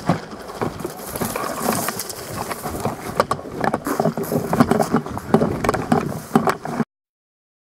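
Close rustling and scraping with many short clicks and cracks, like movement and handling noise right at the microphone. It cuts off abruptly near the end into total silence.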